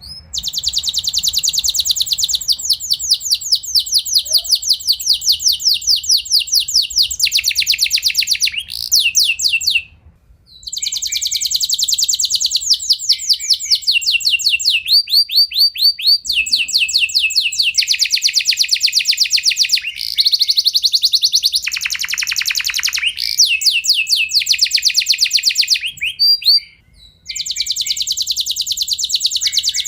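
Domestic canary singing long rolling trills of rapid repeated high notes, one phrase running into the next, with two brief pauses.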